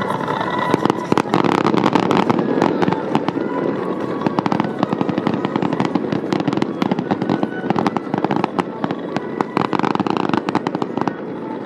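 Fireworks display: a dense, rapid crackle of many small bursts over a steady noisy bed, thickest early on and again near the end.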